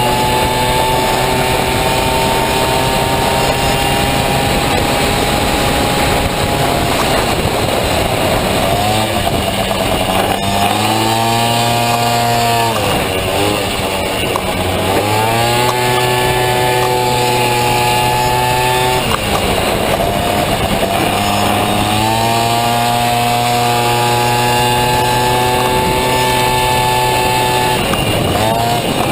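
Honda Motocompo's two-stroke Honda Dio scooter engine running hard at high revs, dropping in pitch as it comes off the throttle and climbing back up as it accelerates again, about four times.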